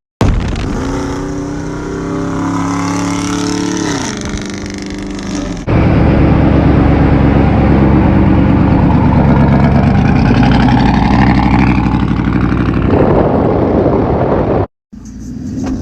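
Lifted Chevy Silverado's loud exhaust, straight pipe with two glass-pack mufflers, in edited clips. The revs drop about four seconds in. A sudden cut brings a louder, steady drone, which stops abruptly near the end.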